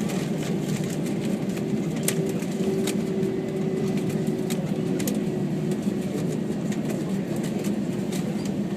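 Steady cabin noise of an Airbus A321 taxiing after landing: a constant low hum with a steady tone above it, and scattered light clicks and rattles.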